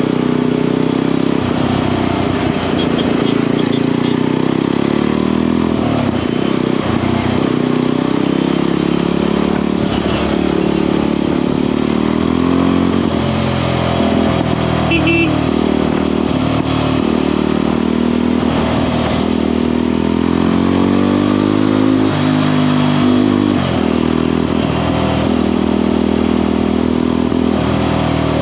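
Motorcycle engine and exhaust running on the move, loud and continuous, the engine note rising and falling a little with the throttle.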